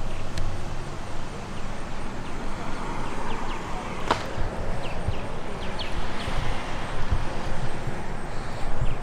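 Outdoor ambience: a steady low rumble with a few faint short high chirps and a single sharp click about four seconds in.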